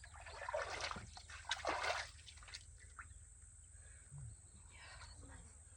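Pool water sloshing and splashing as a person steps and moves into it, in a few bursts over the first two seconds, then quieter lapping.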